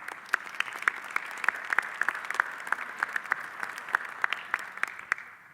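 Audience applauding, many sharp individual claps standing out over the steady clapping, which fades out near the end.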